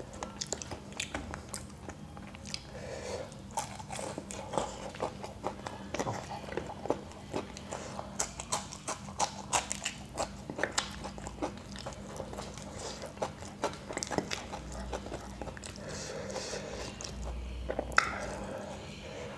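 Close-miked chewing and biting of deep-fried samosas and raw green chillies: a steady run of crisp crunches and wet mouth sounds, with one louder crack near the end.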